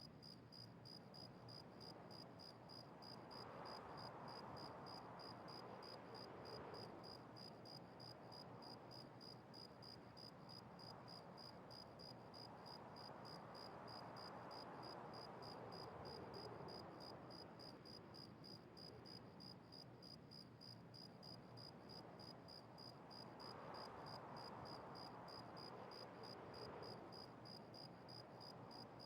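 Near silence with faint insect chirping: a high-pitched chirp repeating evenly about three times a second.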